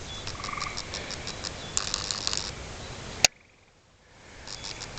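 Night insects calling in fast high ticking pulses over a steady hiss, busiest about two seconds in. A little past three seconds a sharp click comes, and the sound almost drops out for about a second before it returns.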